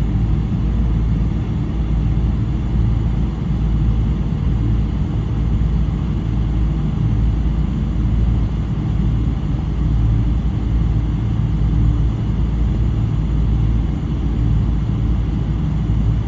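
Steady low rumble of a Boeing 777-300 with Rolls-Royce Trent 800 engines, heard from inside the passenger cabin, even in level and pitch throughout.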